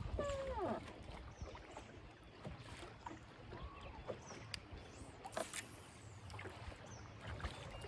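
Water lapping against a small fishing boat's hull, with a low wind rumble, a few short gliding tones near the start and about three and a half seconds in, and scattered faint clicks.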